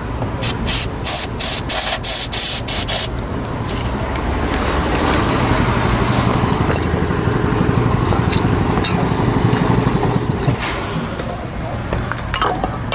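A string of short aerosol spray bursts, about eight in under three seconds, then the Chevrolet Monte Carlo's starter cranking the engine for several seconds after five months of sitting. It is a cold start and the engine turns over without settling into a run.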